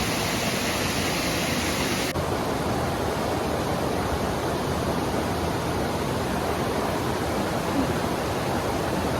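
Waterfall rushing: a steady, even noise of falling water. It sounds a little brighter for the first two seconds.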